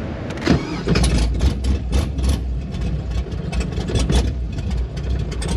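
Pontiac Trans Am V8 running: a deep low rumble that swells about half a second in, broken by irregular louder surges.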